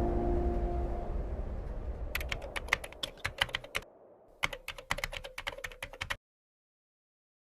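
Two runs of rapid, sharp clicks like keyboard typing, heard as the ambient music fades out; the sound then cuts off to complete silence about six seconds in.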